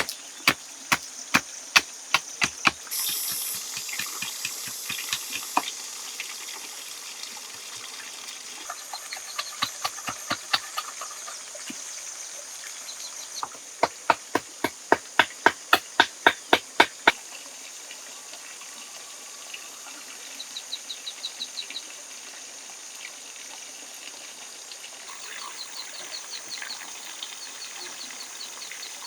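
Rhythmic chopping strikes, about three a second, in two runs: one ending a few seconds in and a louder one about halfway through. A steady forest background of insect hiss runs under them, and short rapid pulsed insect or bird calls come near the end.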